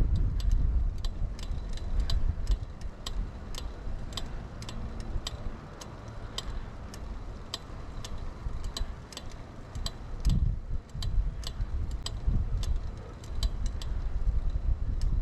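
A 2000 Kona Blast mountain bike ticking steadily as it rolls, about two to three sharp clicks a second, over low tyre rumble and wind on the microphone.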